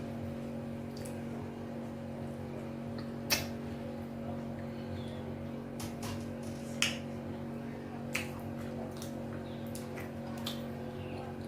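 Mukbang eating sounds: sharp, wet mouth clicks and lip smacks now and then, the loudest about three and a half and seven seconds in, over a steady low hum.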